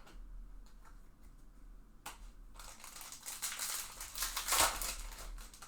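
Foil trading-card pack wrapper crinkling and being crumpled in the hands. The crackle starts about two seconds in and is loudest near the end.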